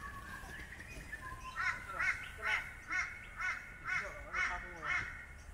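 A bird calling outside: a series of about eight harsh, evenly spaced calls, roughly two a second, starting about a second and a half in.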